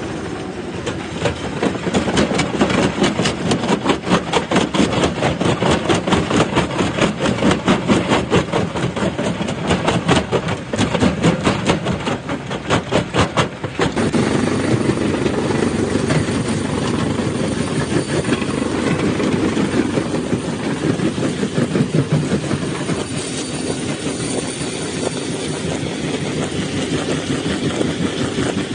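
Stone crushing machine breaking rock, with rapid clattering and cracking impacts several times a second. About halfway through the sound switches abruptly to a steadier grinding rumble.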